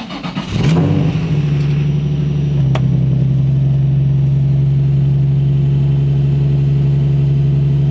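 2004 Nissan 350Z's 3.5-litre V6 starting cold: it cranks briefly, catches under a second in, and settles into a steady fast idle. There is no belt squeal, because the loose accessory belts have been cured by tightening their tensioners.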